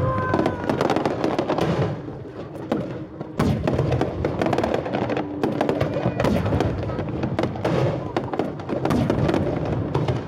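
Fireworks going off in rapid succession: a dense run of bangs and crackling reports, easing briefly about two seconds in before resuming.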